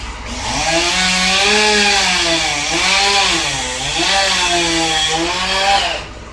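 Chainsaw revving up and cutting, its pitch dipping and recovering several times as it loads in the wood, then stopping just before the end.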